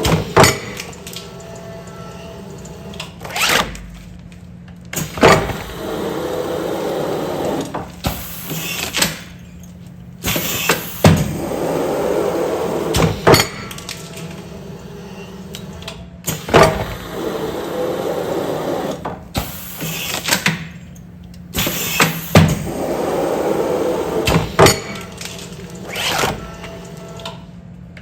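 Automatic food-container sealing machine running continuous cycles, repeating about every five and a half seconds: sharp clunks of the mechanism, then a couple of seconds of motor whir, over a steady hum.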